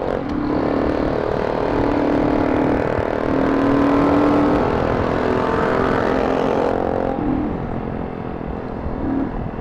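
Motorcycle engine running under way, its pitch rising and falling several times with the throttle, over wind rush that drops away about seven seconds in.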